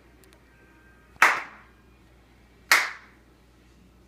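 Two sharp hand claps about a second and a half apart.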